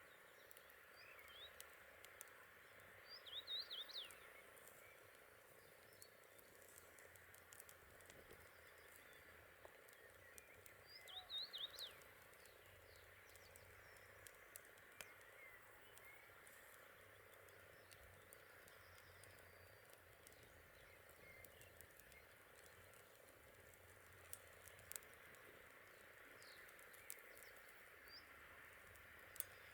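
Faint outdoor nature ambience: a steady background hum of calling creatures, with a short cluster of high chirping calls twice, a third near the end, and scattered small clicks.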